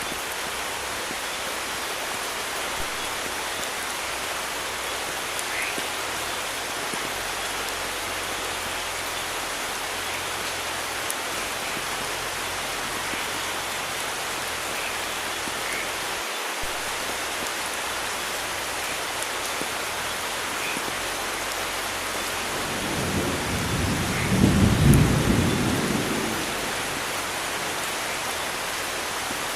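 Steady rain falling, with a low rumble of thunder that swells near the end and fades away over about three seconds.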